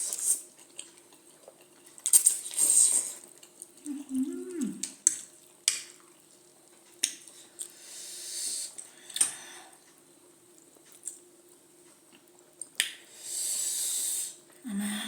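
A person eating spicy food: utensils clicking against dishes, several hissing slurps or sharp breaths each about a second long, and a short hummed sound about four seconds in.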